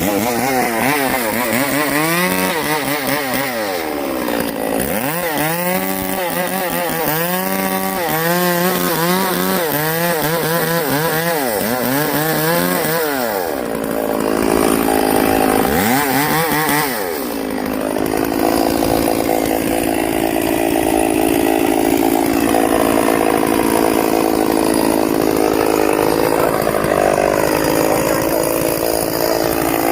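Two-stroke chainsaw revving up and down over and over, then settling into steady running for the last ten seconds or so.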